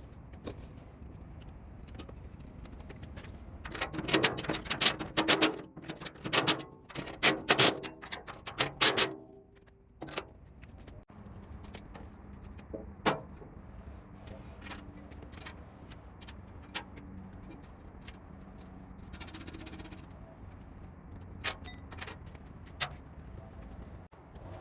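Metal tools and parts clattering and clinking on a workbench. A dense run of ringing metallic knocks starts about four seconds in and lasts about five seconds, followed by scattered single clicks and taps.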